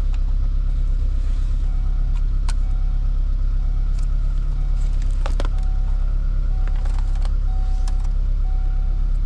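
A 1994 Saab 900's four-cylinder engine idling steadily. From a couple of seconds in, a short beep repeats about once a second, and there are a few sharp clicks of wiring connectors being handled.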